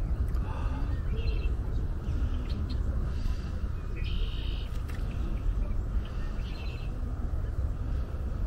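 Birds giving short, high chirping calls every second or so over a steady low rumble.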